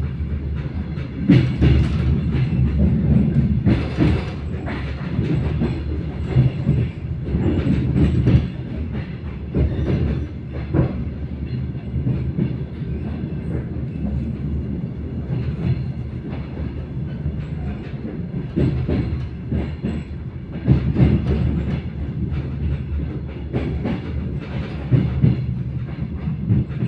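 Passenger train rolling along the track, heard from inside the carriage: a steady low rumble from the running gear with irregular clacks and knocks from the wheels on the rails.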